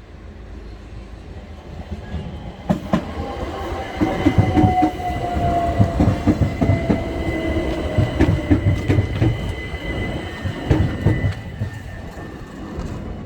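Southern Class 377 electric multiple unit passing over the level crossing, its wheels clacking over rail joints in a quick irregular series, with a whine that slides down in pitch. It builds about three seconds in and dies away near the end.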